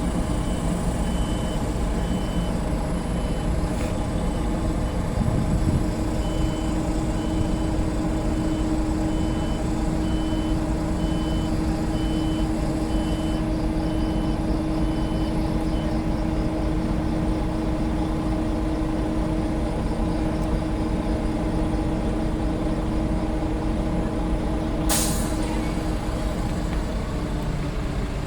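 Heavy truck's diesel engine running steadily while a reversing alarm beeps over and over, stopping about halfway through. A steady droning tone joins about five seconds in, and a short sharp air-brake hiss comes near the end.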